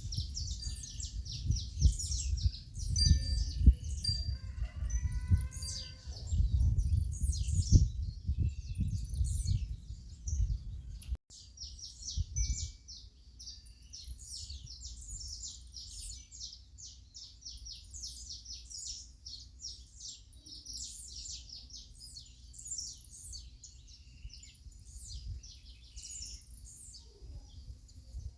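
Many small birds chirping and twittering rapidly in a high-pitched dawn chorus. For the first eleven seconds a loud low rumble lies under the birdsong; after a sudden cut it drops away to a faint low hum.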